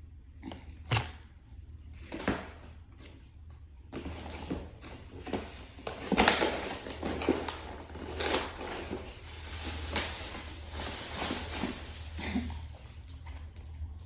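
Handling noise from a food meal setup: a few light knocks, then a long stretch of crinkly rustling, as of paper or plastic food packaging being moved and opened.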